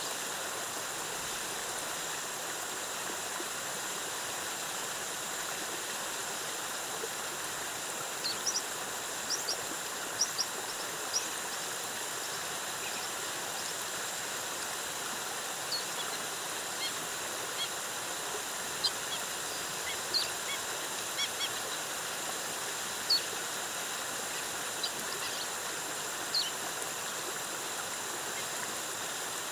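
Waterfall water rushing and splashing steadily, with scattered short, high bird chirps over it from about eight seconds in.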